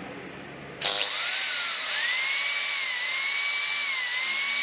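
Electric drill starting up about a second in and running with a high whine, its pitch sagging briefly a few times as it bites under load.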